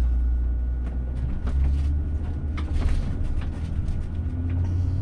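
Vehicle cabin noise while driving: a steady low engine and road rumble, with a few light clicks or rattles about a second and a half and nearly three seconds in.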